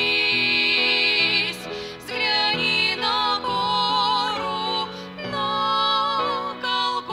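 Two women singing a slow hymn over instrumental accompaniment, holding long notes with vibrato.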